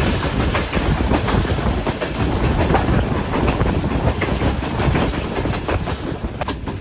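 Hazara Express passenger train running along the track: a steady loud rumble of wheels and carriages with rapid clicks of the wheels over rail joints.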